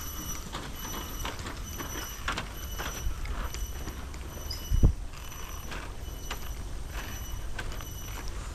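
Footsteps of someone walking a trail, about two a second, with a high chirp repeating evenly in the background. A single loud thump a little past the middle.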